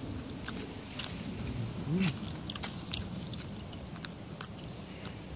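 Someone chewing and biting food, heard as scattered crisp clicks and crunches. About two seconds in there is a brief hummed sound that rises and falls, the loudest moment.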